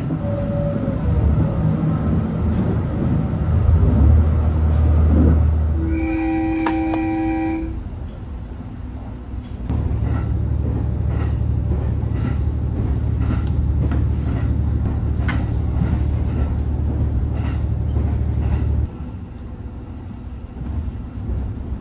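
Train running with a deep, steady rumble. A horn sounds once, a held tone lasting nearly two seconds about six seconds in, and later the rumble comes back loud with a scatter of light clicks before cutting off abruptly.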